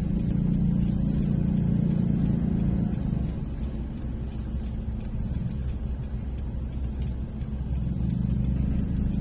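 Road vehicle's engine running steadily with a low hum, easing off about three seconds in and picking up again near the end.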